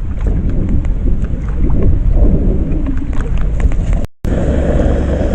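Rain falling, with light drops ticking and wind rumbling on the microphone. After a break about four seconds in, a steadier, even rushing noise takes over.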